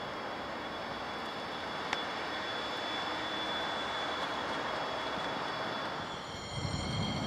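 TGV Duplex high-speed train passing at a distance: a steady rushing noise with a thin high whine running through it, and a single click about two seconds in. Near the end a louder, uneven low rumble and several steady high tones come in.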